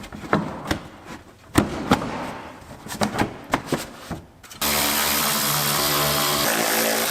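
A handheld power tool's motor runs steadily for about three seconds, starting suddenly about four and a half seconds in. Before it come scattered sharp clicks and knocks of parts and fasteners being handled.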